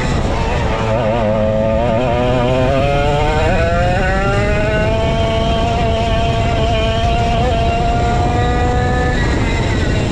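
Vintage go-kart's 135cc Sudam two-stroke engine running under load: the revs waver low for the first few seconds, then climb steadily for about five seconds before dropping off near the end.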